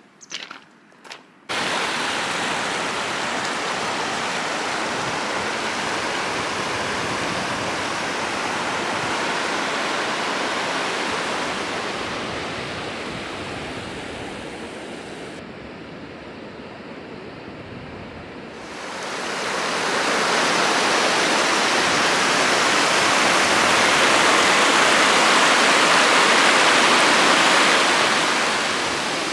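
Valley stream rushing over rocks: a steady rush of water that starts suddenly about a second and a half in, eases a little in the middle and grows louder again from about twenty seconds in.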